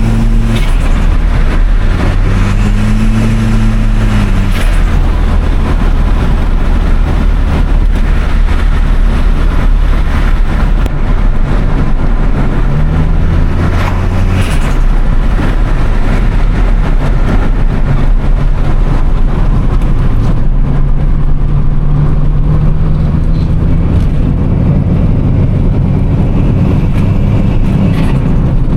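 Toyota Starlet Glanza V's turbocharged 1.3-litre four-cylinder engine driving under load, its note rising and falling with revs and gear changes. There are a few short turbo flutter bursts as the throttle lifts, near the start, about four and a half seconds in and about fourteen seconds in.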